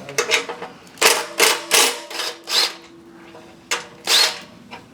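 Hand tools at work under a car during an exhaust swap: quick metallic strokes and clanks, three close together about a second in, then a few more spread out, with a short high squeak among them.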